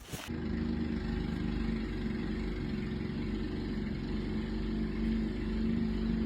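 Motor vehicle engine running steadily with a low, even hum, starting about a third of a second in.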